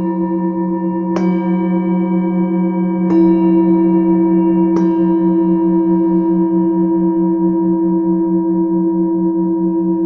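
Singing bowls struck three times, a couple of seconds apart, each strike layered over two deep tones that keep ringing. The lower tone pulses with a slow, even wavering.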